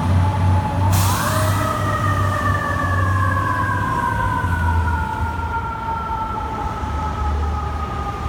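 Fire engine siren rising sharply in pitch after a sudden blast about a second in, then slowly winding down, over the low rumble of the apparatus's engine.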